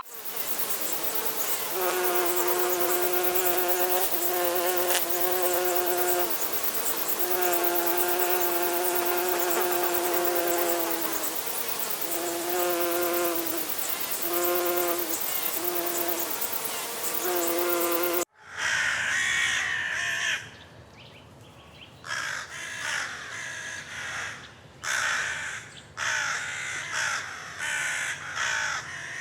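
Rainforest insects: a dense high-pitched hiss with a buzzing hum that swells and stops in phrases of one to two seconds. About 18 seconds in it cuts off suddenly, and harsh, caw-like bird calls follow in short bursts.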